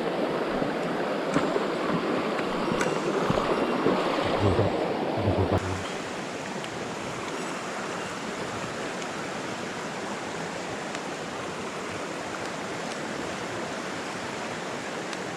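Mountain stream water rushing steadily over rocks, with a few soft low knocks in the first half. About six seconds in the sound changes abruptly, becoming a little quieter and more hissy, and the rush then runs on evenly.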